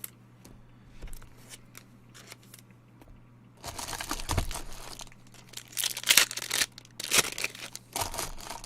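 Baseball card pack wrapper being torn open and crinkled, in several loud rustling bursts over the second half after a few soft clicks of card handling.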